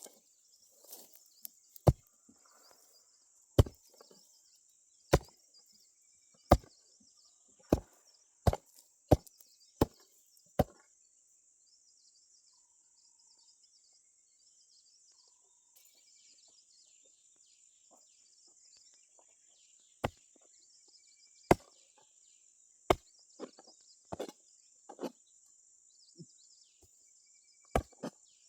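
Sharp single chopping strokes of a hand tool into soil or plant matter: about nine strokes spaced roughly a second apart, a pause of about ten seconds, then about eight more.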